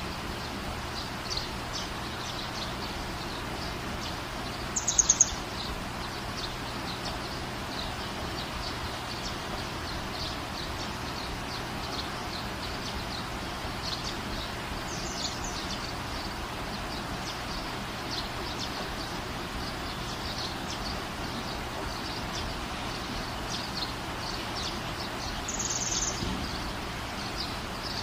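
Birds chirping in the background over steady outdoor noise, with a brief, louder run of quick high chirps about five seconds in and another near the end.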